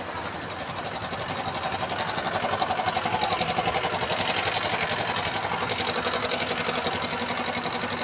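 A big truck's engine running with a fast, even pulse. It grows louder from about two seconds in, then eases off slightly near the end.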